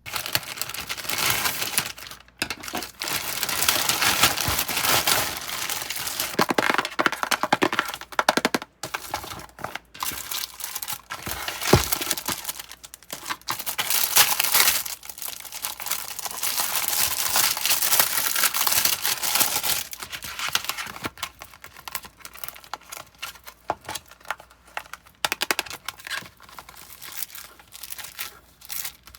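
Packaging being handled and torn open: a dense run of crinkling and rustling with sharp crackles, thinning out and growing quieter over the last several seconds.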